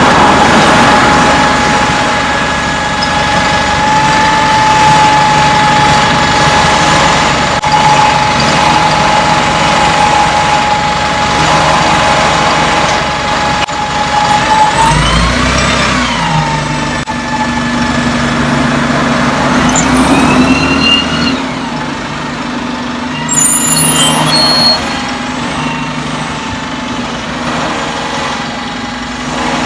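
Parked bus's diesel engine left idling, a steady low hum with a high whine over it. About halfway through and again about two-thirds of the way, a whine rises and falls, as from traffic passing.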